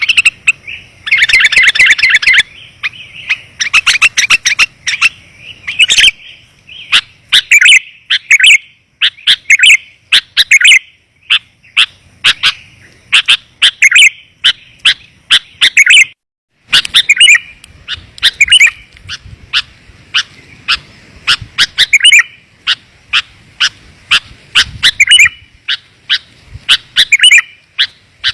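Sooty-headed bulbul (kutilang) calls, played as a bird-catcher's lure call: rapid, clear chirps and short bubbling phrases repeated over and over. There is a brief gap of silence a little past halfway.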